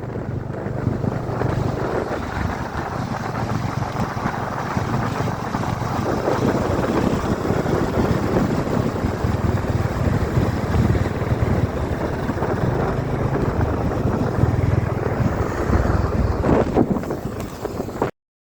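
Wind buffeting the microphone of a moving motorcycle, with the engine running underneath; the sound cuts off suddenly near the end.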